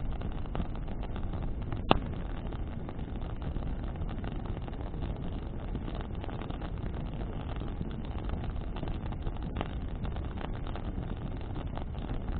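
Bonfire burning in the wind: a steady low rumble of wind on the microphone with scattered crackles from burning branches, and a sharp pop about two seconds in and another near the end.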